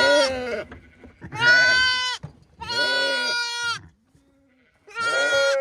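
Sheep bleating: four separate calls, each under a second to about a second long and held at a steady, fairly high pitch, typical of lambs.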